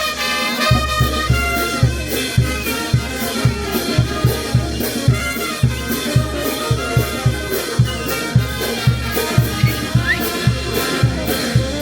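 Peruvian brass band playing a tune, horn lines over a steady bass-drum beat of about two to three strokes a second.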